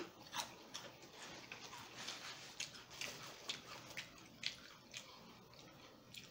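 Faint close-miked chewing of a sandwich mouthful with the mouth closed: soft wet clicks and smacks at irregular intervals.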